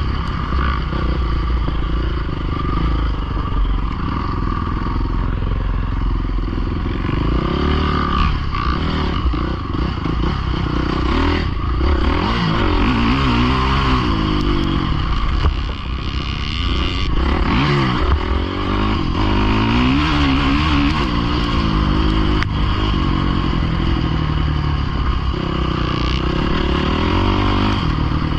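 Dirt bike engine revving up and down over and over while riding, with a steady low rumble underneath.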